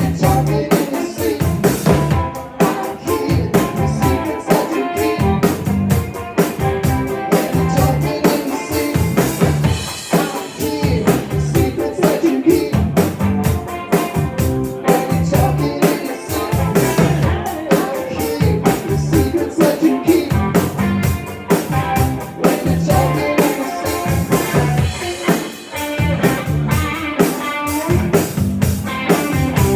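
Live rock band playing, with a drum kit keeping a steady beat under bass and guitar.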